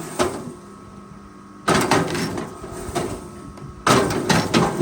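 Forestry machine working: two sudden bursts of knocking and clattering, about two seconds apart, over a steady engine hum.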